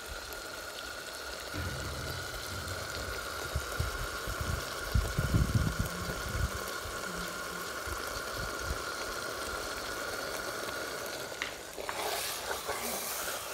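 Egg curry sizzling in an aluminium pot, with a metal ladle stirring it and dull thumps in the middle stretch; the sizzle turns louder and brighter near the end. A faint steady whine runs underneath and stops about eleven seconds in.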